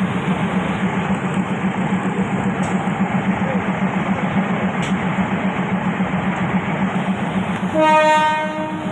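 Train running with a steady rumble, then a single horn blast of about a second near the end.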